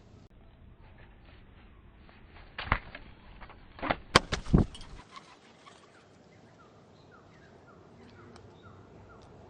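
Birds at a feeder: a few sharp knocks and taps, loudest about three to four and a half seconds in, then a run of short falling chirps, about three a second, near the end.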